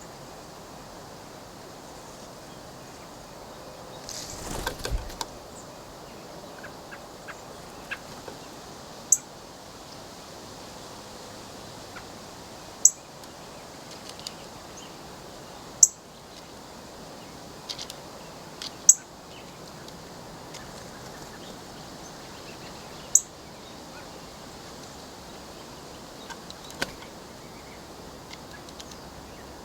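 Birds at a window feeder: about half a dozen sharp, very short high-pitched chips or taps, spaced several seconds apart, over a steady hiss. A brief, louder scuffling noise comes about four seconds in.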